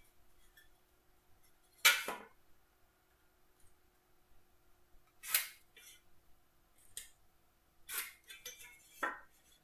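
Wooden workpieces and marking tools being picked up and set down on a workbench: about five short knocks and clatters, the loudest about two seconds in.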